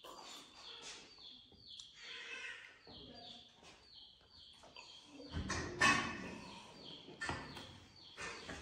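A small bird chirping over and over: short, high, falling chirps about every half second. A few louder knocks and rustles come in just past the middle.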